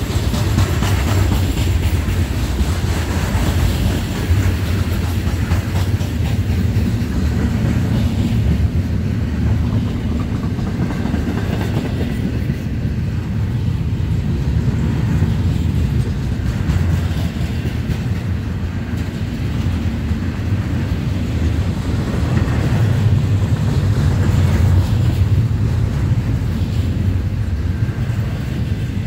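Florida East Coast Railway freight cars rolling past close by at speed: a steady, loud low rumble of steel wheels on the rails as covered hoppers give way to double-stack container well cars.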